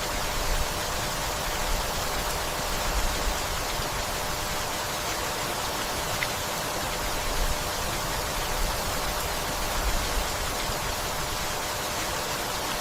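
Steady rainfall, an even hiss without a break, with short low rumbles now and then and a single faint tick about six seconds in.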